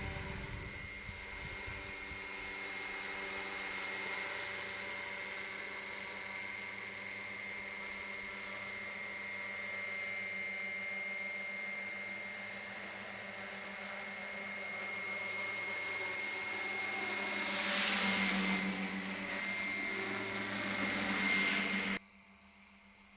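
Radio-controlled MD500E scale model helicopter flying: a steady whine with rotor noise. It grows louder with a sweeping change in pitch as it passes close, then cuts off suddenly near the end.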